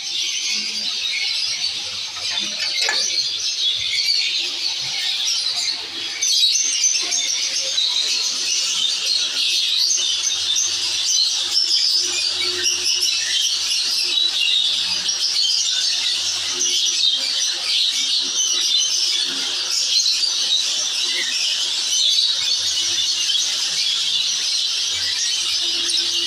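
A flock of small aviary birds, lovebirds among them, chattering and squeaking together in a dense, shrill, unbroken din.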